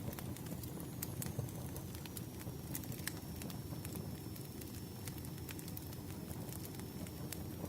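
Campfire crackling: a steady low rumble of burning wood with scattered sharp pops and snaps.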